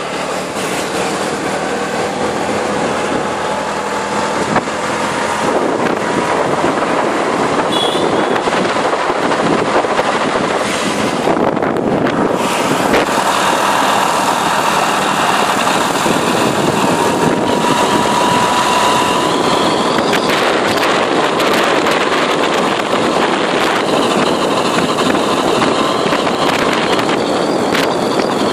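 Yamaha Nouvo scooter under way, with steady wind and road rush and a thin whistle from its final-drive reduction gearbox that rises slowly in pitch as speed builds. The gearbox whistle at 40–50 km/h is a fault.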